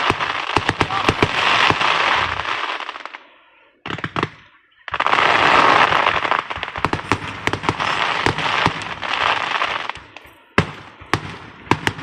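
Fireworks going off: rapid runs of sharp popping cracks over a hiss, like a string of firecrackers or a crackling fountain. The popping breaks off for about a second a few seconds in, starts again in a longer run, then thins to scattered single pops near the end.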